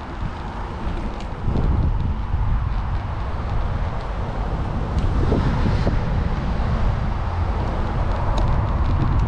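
Wind buffeting the microphone of a GoPro on a moving bicycle: a steady low rumbling noise with road noise underneath.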